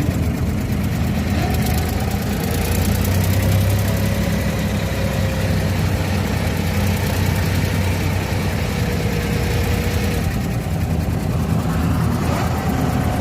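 A small passenger boat's engine running steadily with a low drone. A faint wavering whine sits above it.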